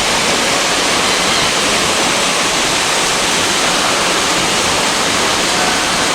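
Steady, loud rush of falling water, with no breaks or changes.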